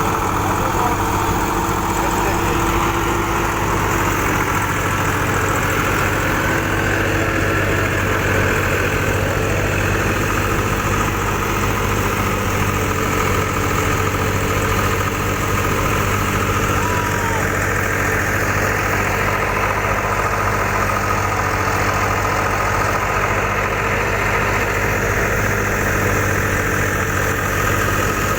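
Massey Ferguson 260 tractor's diesel engine running steadily at constant speed while driving a wheat thresher, with the thresher's drum running along with it.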